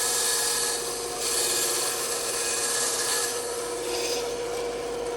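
Bandsaw running with a steady motor hum while its blade cuts through wood, the rasping cut noise swelling and easing as the piece is fed through.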